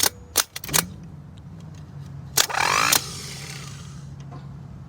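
A failing truck starter motor, which the owner calls toasted, is tried. A couple of clicks are followed by a steady low whir of the starter spinning without cranking the engine over, and a loud grinding burst comes about two and a half seconds in.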